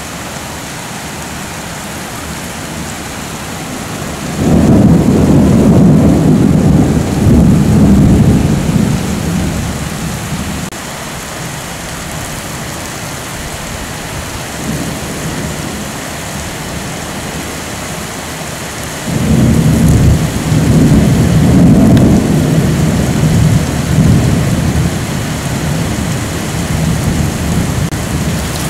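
Steady rain with two long, loud, low rolls of thunder during a summer thunderstorm. The first begins about four seconds in, and the second comes about two-thirds of the way through.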